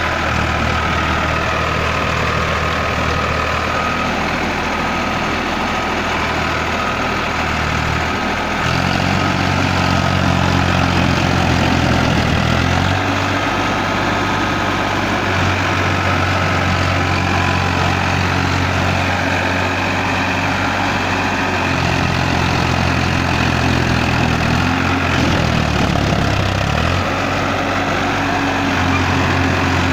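Tractor engine running, its low drone shifting up and down in speed several times.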